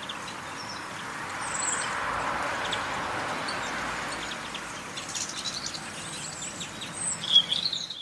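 Small garden birds chirping and calling now and then, with a louder chirp near the end, over a steady background hiss that swells in the middle.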